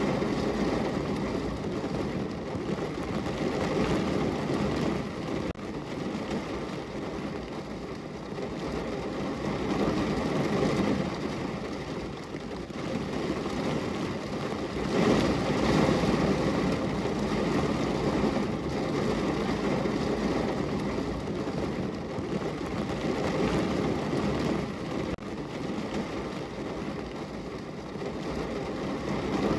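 Steady rain on a window, a dense even wash of noise with a low rumble that swells and eases every few seconds.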